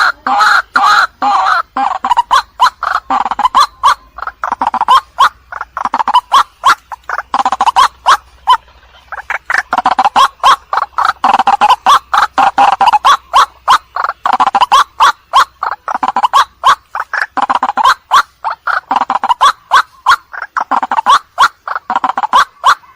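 White-breasted waterhen (ruak-ruak) calling, a loud run of rapid repeated croaking notes, several a second, that breaks off briefly about eight seconds in and then carries on. It is a lure call, played to draw the birds in.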